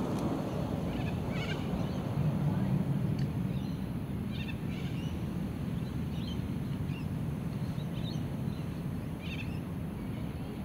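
Birds calling in short, scattered chirps over a steady low rumble.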